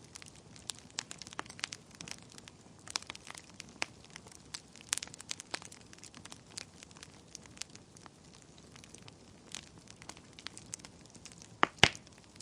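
Wood fire burning in a fireplace, crackling with irregular small pops and snaps, and two louder pops close together near the end.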